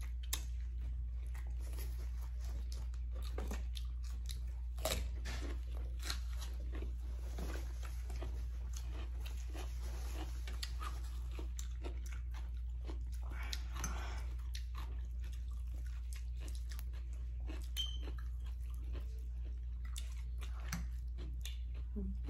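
Close-up chewing and crunching of food, made up of many small irregular clicks and crackles, over a steady low hum.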